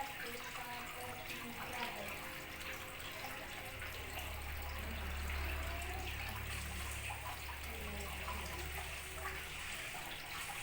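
Steady trickling, running-water noise with a low hum underneath that swells for a few seconds in the middle.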